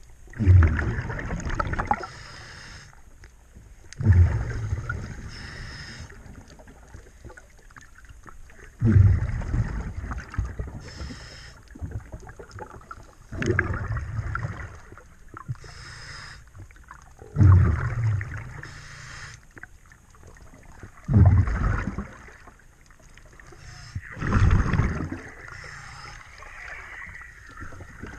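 A scuba diver breathing through a regulator underwater: a burst of bubbling exhaust about every four seconds, seven times, with a fainter hiss of the regulator on each inhale in between.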